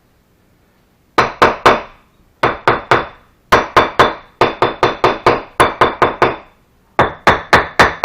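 A metal bricklaying tool striking brick: about two dozen sharp knocks in five quick bursts, roughly four blows a second, each with a slight metallic ring.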